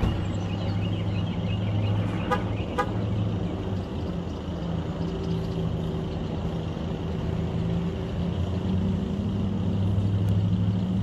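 Steady low hum of a vehicle running on the road, with two short beeps about two and a half seconds in.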